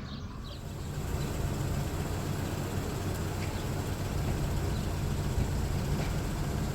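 A motor vehicle running: a steady low rumble that grows slightly louder after about a second.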